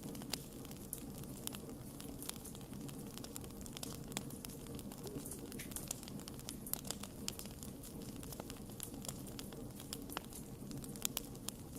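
Campfire crackling: irregular sharp pops and snaps of burning wood over a steady low rush of flame.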